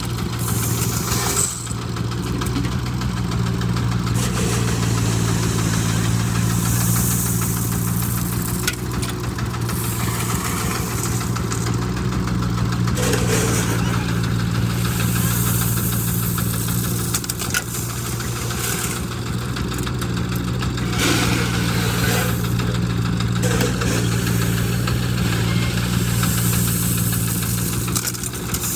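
Diesel engines of a Hitachi mini excavator and a công nông tractor-truck running steadily while the excavator scoops stone, with occasional short knocks of the bucket and rock.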